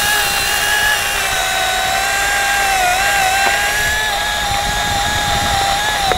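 Chainsaw run up to full throttle and held in the cut at a steady pitch, bogging briefly about three seconds in: the back cut through a roped tree top.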